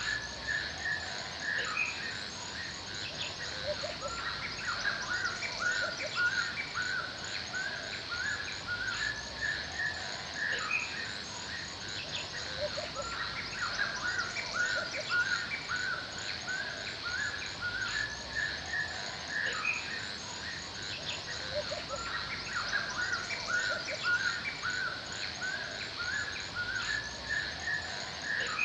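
Forest ambience: a chorus of birds chirping and calling over and over without a break, over a steady high-pitched background hiss.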